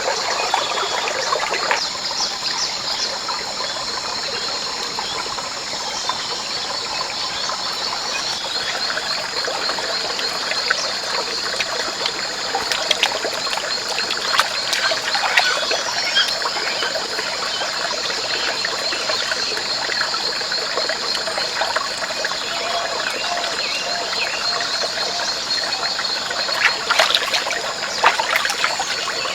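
Water trickling under a steady, high-pitched chorus of rainforest animals, with scattered small clicks and taps that are louder near the end.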